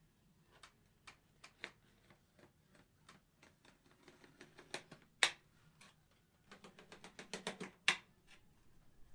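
A series of light, irregular clicks and taps, turning into a quicker run of taps about six and a half seconds in, with two sharper, louder clicks among them.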